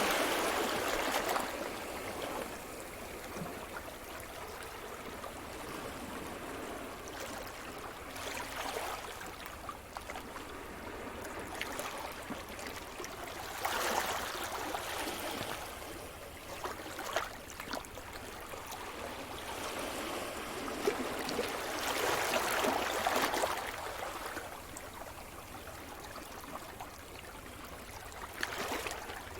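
Sea surf: waves breaking and washing up the shore as a steady hiss that swells into a louder surge every six to eight seconds.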